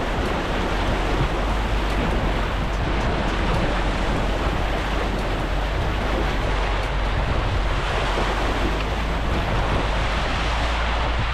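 Mahindra Scorpio's 2.2-litre turbo-diesel on the move: a steady rumble of engine, tyre and wind noise, with wind buffeting the microphone.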